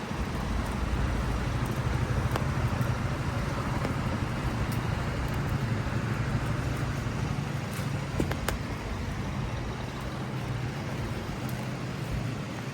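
Car engine and tyre noise on a wet street over a steady hiss of rain, swelling about half a second in and easing off after about eight seconds as the traffic moves past.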